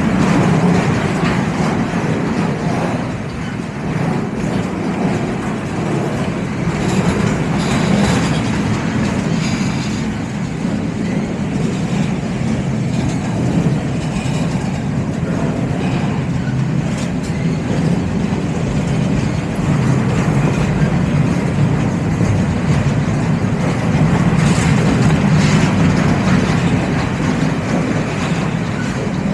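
Freight train cars rolling past on the rails, a loud steady rumble, with a few brief sharper clanks.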